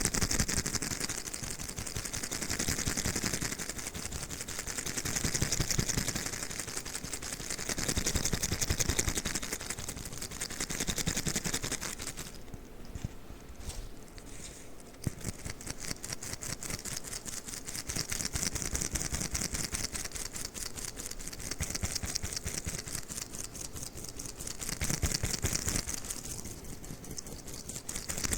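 Fast, continuous sticky crackling and tapping from a sticky crawler toy being worked, with a quieter stretch a little under halfway through.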